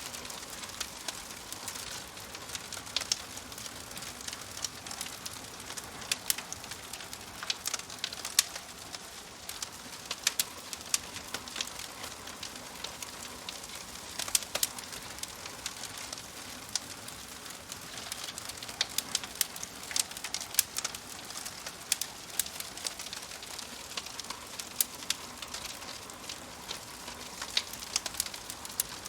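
Wood fire crackling in a fireplace: irregular sharp pops and snaps of burning logs over a steady hiss.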